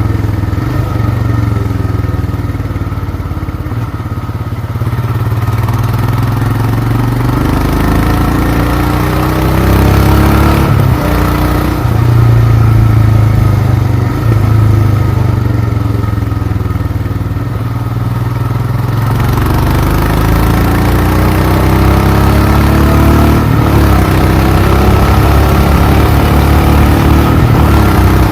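Royal Enfield Himalayan's single-cylinder engine and exhaust running as the motorcycle is ridden, its pitch rising as the bike picks up speed twice, a few seconds in and again about two-thirds of the way through.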